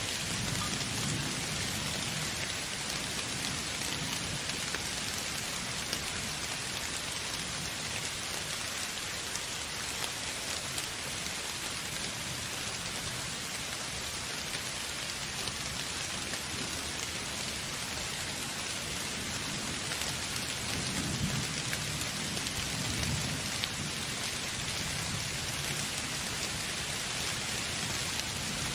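Steady rain falling, with low rumbles of thunder swelling near the start and again about two-thirds of the way through.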